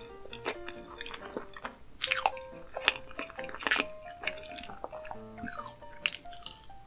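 Close-miked eating sounds of soft lemon shortcake with cream: wet chewing and several sharp lip smacks. Light background music with a simple stepping melody plays underneath.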